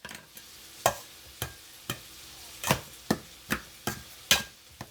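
A kitchen utensil knocking against a pot, in a series of sharp, irregular knocks, about eight in all.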